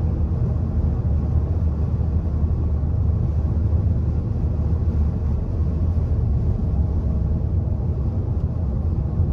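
Steady low rumble of a car driving at highway speed, heard inside the cabin: tyre and road noise with the engine running underneath.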